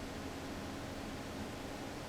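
Steady hiss with a faint low hum and no distinct event: background noise of the shop.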